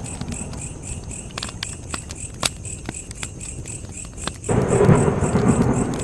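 Wood fire crackling, with scattered sharp pops over a low rumble of flames that swells suddenly about four and a half seconds in.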